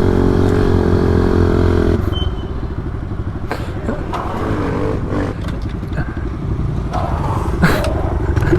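Pit bike engines running at a steady speed, then dropping back to a rough, pulsing idle about two seconds in as the bikes slow and pull in.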